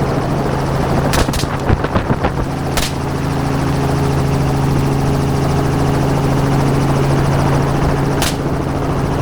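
Helicopter droning steadily in flight while a shooter fires at hogs from it: a few shots in the first three seconds and one more near the end.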